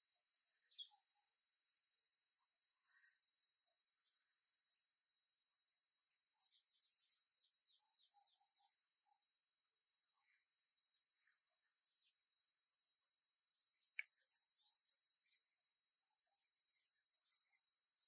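Faint chorus of small birds: many quick, high chirps and twitters overlapping throughout, with one sharper chirp about fourteen seconds in.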